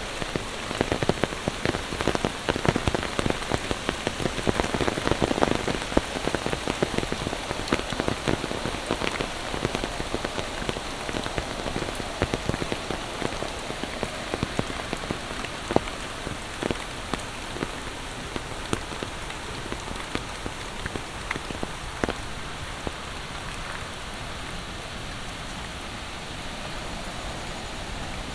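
Monsoon rain falling steadily, a dense hiss with many close drop hits, the hits growing sparser in the second half.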